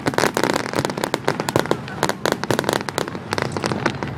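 Fireworks display: a dense, rapid crackle of many small aerial bursts, popping several times a second and thinning out near the end.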